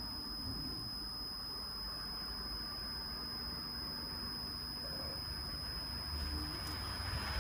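LG Multi V mini air-conditioning outdoor unit running steadily, a low hum that gets stronger about six seconds in.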